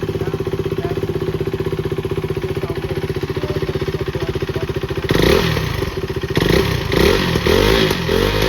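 KTM RC 390 BS3's single-cylinder engine idling with an even, pulsing beat, then, from about five seconds in, revved hard several times in quick blips through its exhaust.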